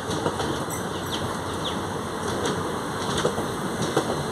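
Passenger coaches of a departing express train rolling past, a steady rumble and rattle with irregular clicks and knocks from the wheels over the rail joints.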